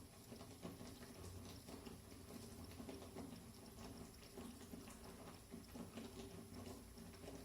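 Jaggery syrup bubbling faintly in a pan, with small irregular pops, cooked down to a thick, sticky jelly stage with almost no water left.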